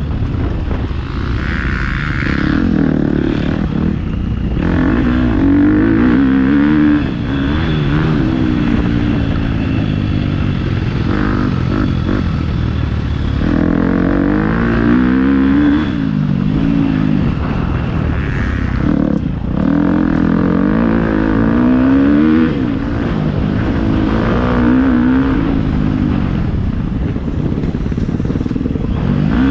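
Motocross bike engine under hard riding, its pitch repeatedly climbing and dropping back as the throttle is worked through gear changes and jumps.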